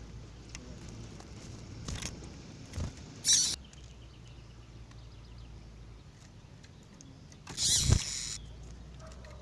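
Caged double-collared seedeater (coleiro) giving two short bursts of sound over a low steady hum: a brief high-pitched one about a third of the way in, and a louder, longer one near the end.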